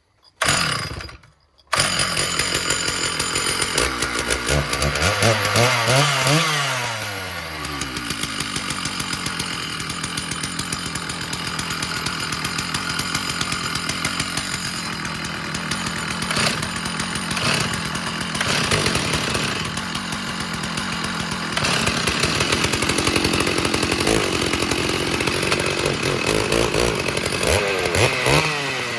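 Large Stihl two-stroke chainsaw cold-starting: a brief burst, then it catches about two seconds in and runs continuously, revved up and back down twice, once around five to seven seconds in and again near the end.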